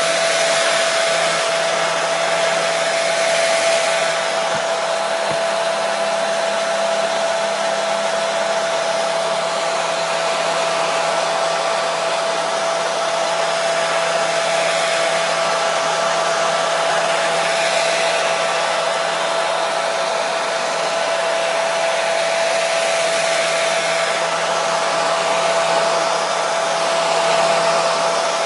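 Hair dryer running steadily: an even rushing hiss of air with a constant motor whine on top.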